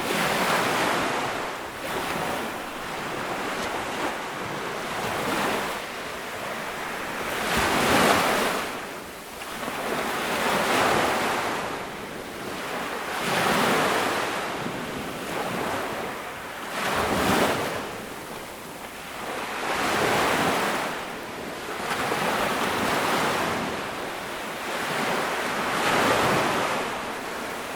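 Ocean waves breaking on a beach, one surge every few seconds, each building and falling away, with wind noise on the microphone.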